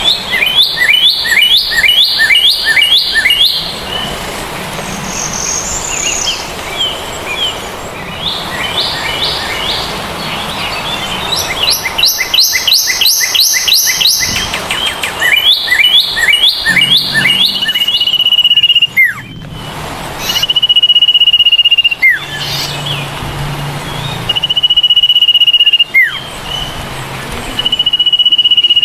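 Birdsong: rapid runs of short chirps in two bursts, then long steady whistled notes repeated every few seconds, each ending in a quick downward slur.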